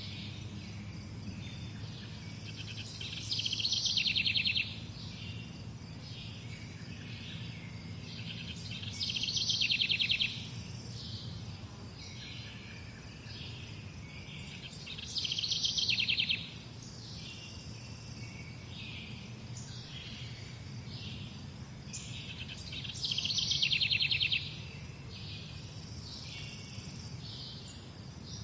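Morning birdsong: one bird repeats a loud song phrase of about a second and a half, four times at intervals of about six seconds, with other birds chirping more softly in between, over a steady low background rumble.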